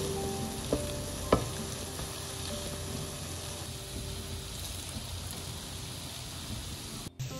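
Aloo tikki potato patties sizzling steadily as they shallow-fry in oil, pressed down with a wooden spatula. Two sharp clicks come about a second in.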